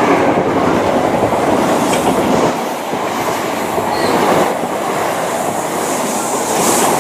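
Two coupled Class 442 electric multiple units running past, a steady loud rumble with the wheels clattering over rail joints and points, and a brief faint wheel squeal now and then.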